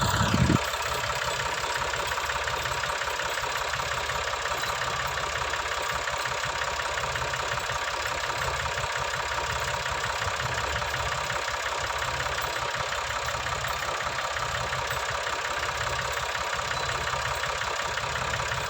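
Tractor diesel engine idling steadily. A louder low sound stops about half a second in.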